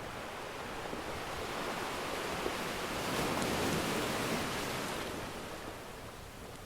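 An ocean wave surging in and washing back: a rush of surf that builds to a peak midway and then fades. A faint single pop from a wood fire is heard about two and a half seconds in.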